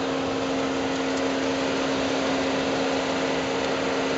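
A Mazda car's engine running at idle with the hood open, a steady whirring hum from the engine bay.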